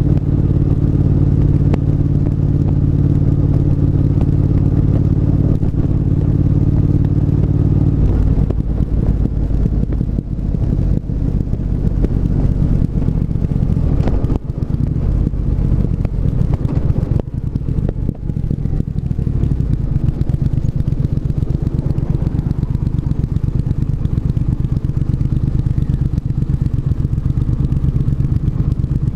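Triumph 1200 cc parallel-twin motorcycle engine running on the road at steady revs; about eight seconds in the revs drop and the engine runs lower and unevenly for a while, then settles into a steady lower note.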